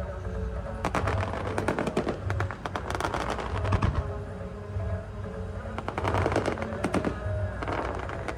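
Fireworks going off in rapid crackling volleys, several quick bursts of popping, over music with a pulsing beat played for the show.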